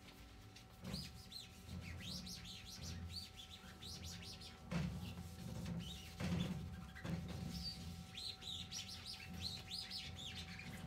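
Small birds chirping rapidly, many short rising-and-falling chirps over a faint steady hum, with two louder knocks about five and six seconds in.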